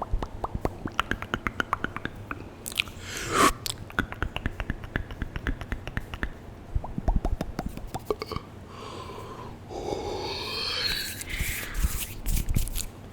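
Close-miked ASMR mouth sounds on a highly sensitive microphone: rapid wet tongue and lip clicks, several a second, with a few seconds of breathy, whisper-like mouth noise about two-thirds of the way in.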